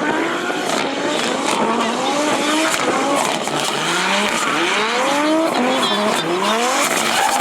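Drift car engine revving hard in a series of rising pitch sweeps as the throttle is worked, over tyres squealing and skidding.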